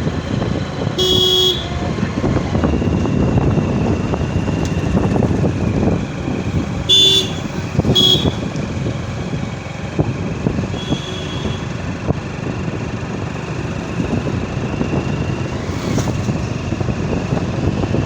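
Road traffic heard from a moving motorcycle: steady engine, road and wind noise. Vehicle horns honk in short blasts about a second in, twice around seven to eight seconds, and once more, fainter, near eleven seconds.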